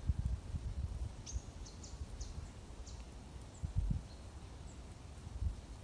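A bird chirping a quick run of about five short high notes about a second in, with a few fainter single notes later. Irregular low thumping noise runs underneath.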